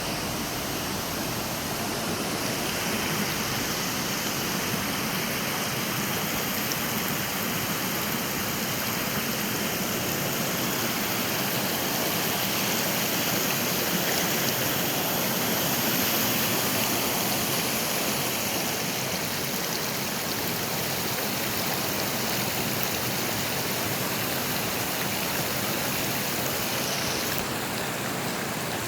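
A stream flowing, a steady, unbroken rush of water.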